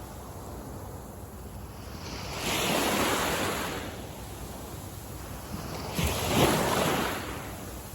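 Sea waves washing onto a beach, two louder swells breaking about two and a half seconds and six seconds in, over a steady hiss of surf.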